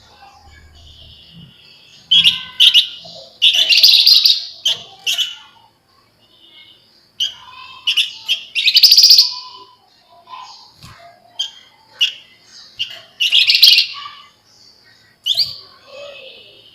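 Javan fulvetta (flamboyan) singing in several loud bouts of rapid, dense chattering trills, with short pauses between the bouts.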